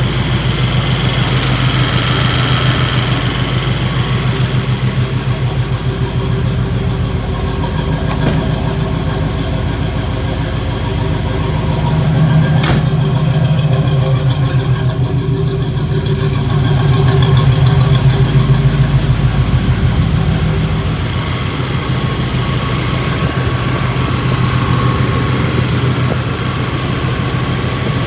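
1984 Pontiac Grand Prix engine idling with a steady, even pulse while its carburetor idle is being adjusted; the idle swells slightly twice, around the middle and about two-thirds of the way in. A single sharp click comes a little before the middle.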